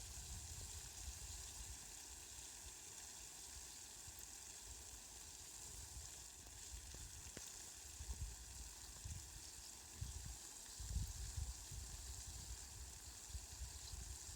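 Steady, faint hiss of falling rain, with low rumbles that swell and fade now and then.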